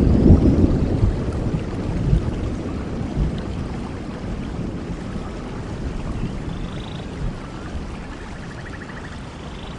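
Thunderstorm in a rainforest: a low thunder rumble, loudest in the first couple of seconds, dies away slowly under steady rain hiss.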